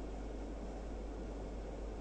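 Steady running noise of a passenger train in motion: an even, low rumble with a hiss over it, without breaks or knocks.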